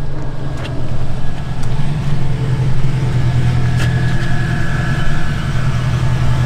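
Engine of a classic muscle car rumbling low and steady at slow speed as the car rolls closer.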